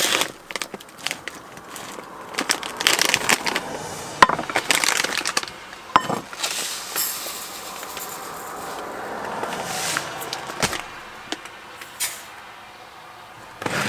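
Quinoa being prepared in a pot: knocks and clicks of cookware and packaging being handled, with two longer stretches of rattling hiss partway through.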